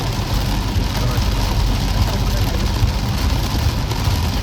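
A vehicle driving through heavy rain: a steady low road and engine rumble under an even hiss of rain.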